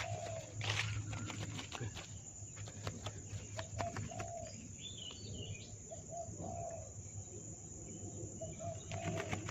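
Birds calling in the open: a dove's short, low cooing notes repeated every second or two, and a brief high warble from a small bird about five seconds in, over scattered light clicks.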